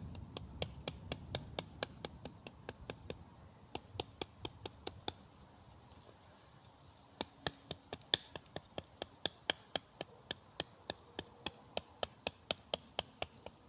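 A blade striking a piece of wood again and again, cutting notches along it: a series of sharp, short knocks, settling into a steady run of about three a second about halfway through.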